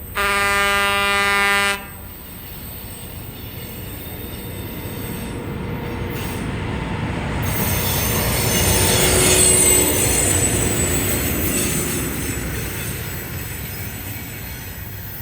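Locomotive air horn sounds one long blast of about a second and a half. Then the train passes, its rumbling wheel and rail noise building to a peak about ten seconds in and fading away.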